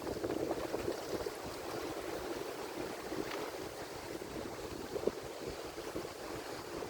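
Atlantic Ocean surf washing in steadily as a rushing noise, with a brief sharper splash about five seconds in.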